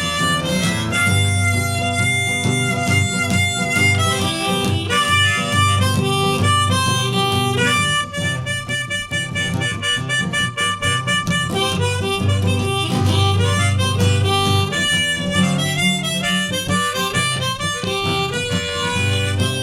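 Harmonica solo over strummed acoustic guitar, an instrumental break in a blues-tinged song, with long held notes.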